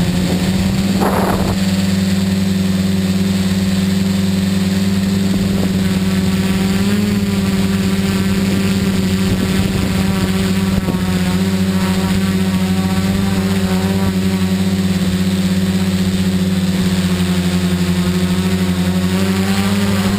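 Tricopter's electric motors and propellers whirring steadily in flight, with a brief noisy rush about a second in and the pitch lifting slightly midway and again near the end.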